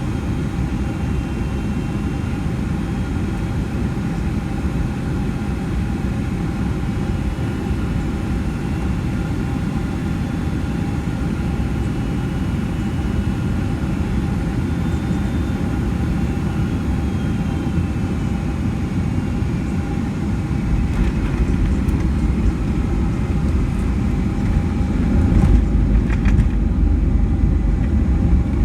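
Steady cabin noise inside a Boeing 757-200: a low engine and airflow rumble with a faint whine, with the rumble growing louder over the last several seconds.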